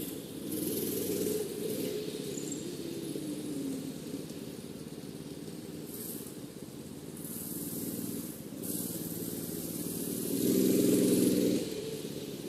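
Harbor Freight Predator 212cc single-cylinder four-stroke engine on a mini bike running under way, its pitch rising and falling with the throttle. It is loudest about eleven seconds in.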